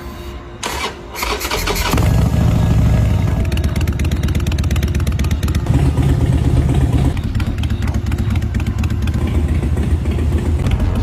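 Harley-Davidson Forty-Eight's 1200 cc V-twin being started: the starter cranks for about a second, then the engine catches and runs with a loud, low, loping beat, swelling slightly a few times.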